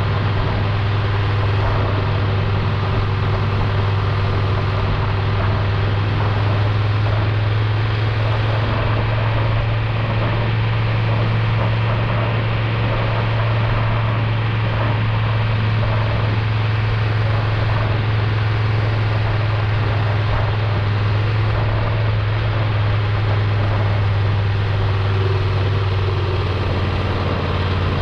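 Triumph Tiger 1200 Rally Explorer's three-cylinder engine running at a steady speed, a constant low hum with road and wind noise, easing slightly near the end.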